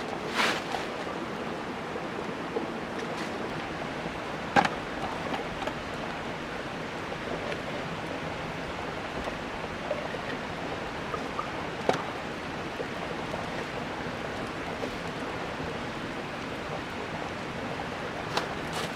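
Wood campfire burning with a steady hiss and a few sharp pops, the loudest about four and a half seconds in and another about twelve seconds in.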